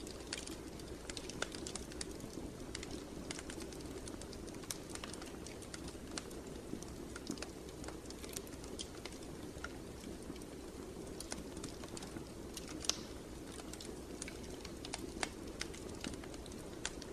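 Wood fire burning in a fireplace, crackling with irregular sharp pops and snaps over a steady low rush.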